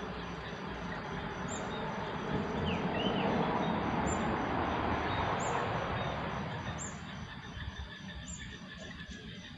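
Small birds chirping in short high notes about every second and a half over a fast, steady high insect-like pulsing. A broad rushing noise swells up a couple of seconds in and fades again a few seconds later.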